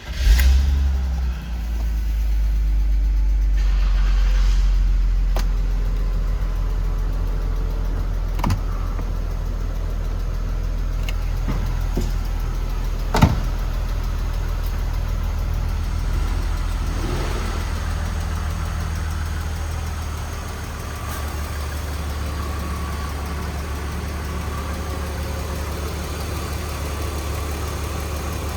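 2002 BMW Z3's 3.0-litre straight-six engine catching and starting, then idling steadily. A few light clicks and one sharp knock about halfway through.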